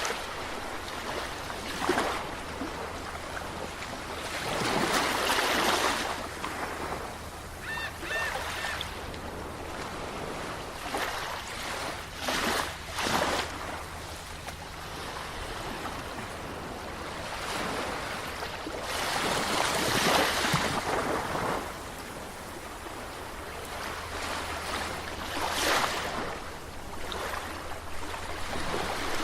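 Sea waves breaking and washing ashore, each wave surging up and falling away every few seconds over a steady wash.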